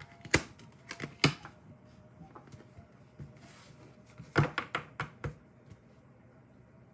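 A handful of sharp taps and clicks: three about a second apart near the start, then a quicker run of five or so about four and a half seconds in.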